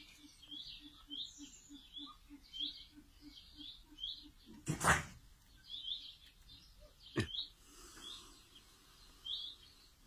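Small birds chirping, short high chirps coming a few times a second, over a soft low pulsing at about four a second through the first half. A sharp knock-like noise comes about halfway and another about seven seconds in.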